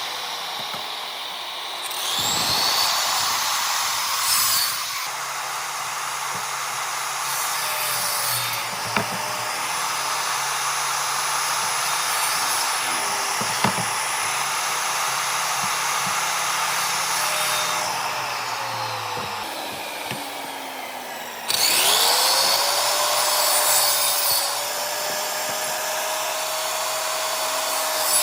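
An electric power tool runs on wood, its motor pitch sagging now and then as it bites. About three-quarters of the way through, the motor winds down and then spins back up with a rising whine before cutting again.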